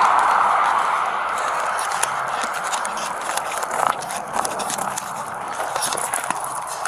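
Irregular clicks, knocks and scuffs of footsteps and handled gear close to a police body-worn camera, over a steady hiss that fades away in the first couple of seconds.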